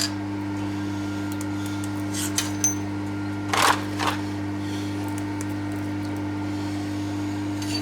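Steady electric motor hum in a metalworking shop, with a few light metal clinks and a short clatter of tools being handled about three and a half seconds in.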